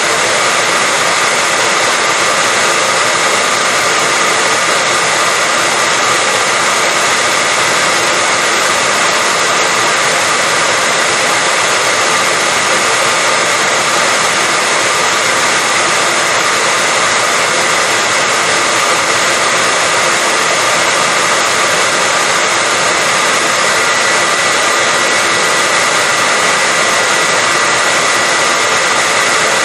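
Hair dryer blowing steadily, a loud even rush of air with a faint motor whine that never changes.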